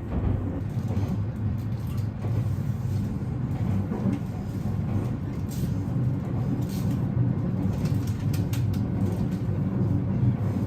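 Steady low rumble of the Sunrise Izumo/Seto sleeper train running, heard from inside a car, with faint clicks and rattles over it.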